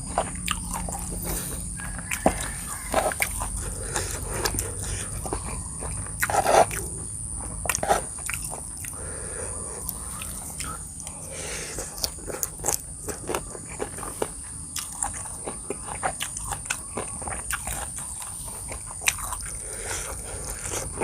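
Close-miked chewing and biting of spicy seafood papaya salad and fresh raw vegetables: irregular wet mouth sounds and many short crunches, with the loudest crunch about six and a half seconds in. A steady high-pitched whine runs underneath.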